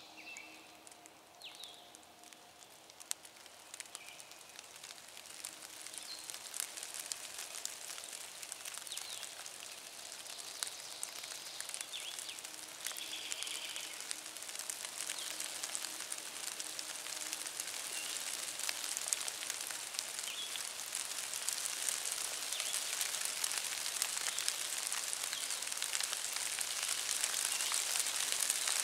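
Rain pattering on dry leaf litter and trees, a dense crackle of small drops that grows steadily heavier. A few short, faint chirps sound in the first half.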